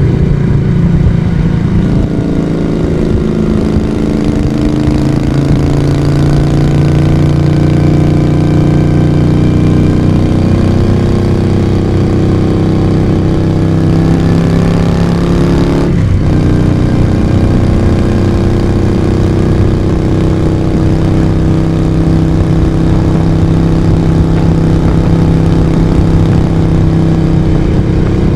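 Moto Guzzi V35's air-cooled transverse V-twin running steadily under way at an even pitch, heard from the rider's position, with a short break in the note about halfway through.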